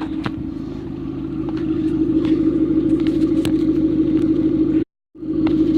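Vauxhall Astra H running steadily through a newly fitted Hoffmann straight-through sports exhaust, a deep, even drone. The sound cuts out completely for a moment about five seconds in.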